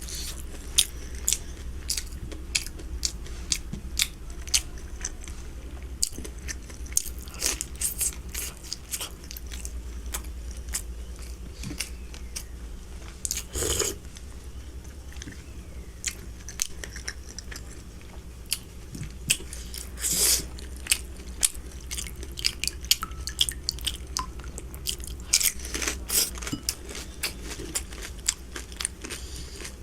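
Close-miked eating: biting and chewing with many sharp wet mouth clicks and smacks, and a few brief louder noises along the way.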